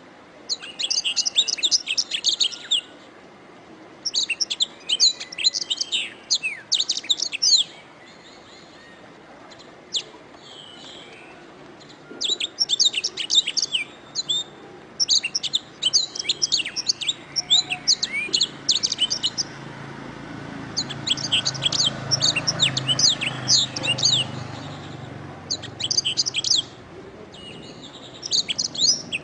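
Domestic canary singing: fast runs of high chirping and trilled notes in phrases of one to three seconds, with short pauses between them.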